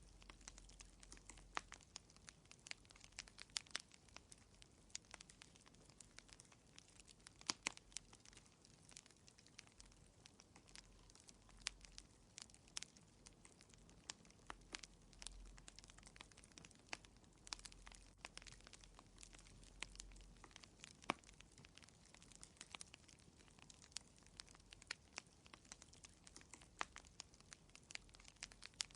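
Fireplace fire crackling: many irregular sharp pops and snaps over a faint steady hiss.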